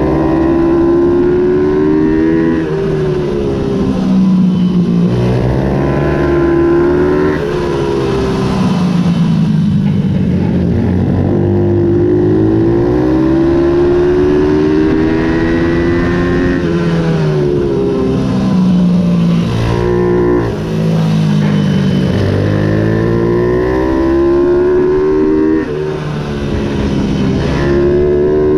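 Ohvale 110 minibike's small four-stroke single-cylinder engine racing, its pitch rising again and again under hard acceleration and falling away between, with brief sharp drops as the throttle closes.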